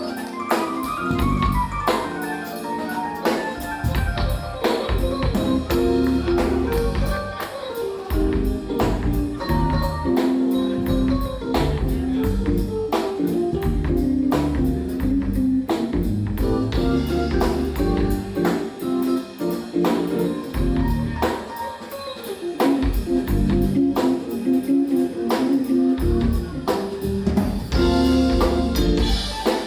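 Live jazz-fusion trio playing: keyboards, electric bass and drum kit, with a steady, busy drum groove under bass and keyboard chords.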